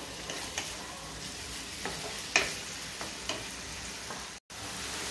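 Chicken keema with onions and masala sizzling in a nonstick kadhai while a spatula stirs and scrapes through it, with a few sharp spatula clicks against the pan.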